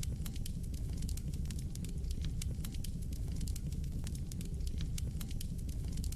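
Wood fire burning in a fireplace: a low steady rumble of flames with frequent, irregular sharp crackles and pops.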